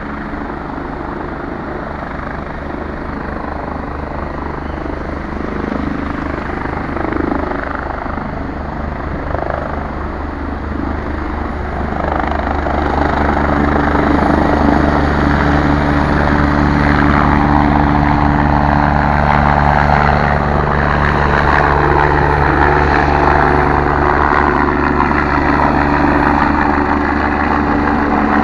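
EMERCOM rescue helicopter running, its rotor beating steadily with a steady engine whine; it gets louder about twelve seconds in and stays loud.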